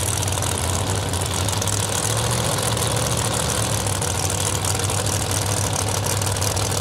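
Drag-race car engines idling steadily side by side, staged at the start line before launch.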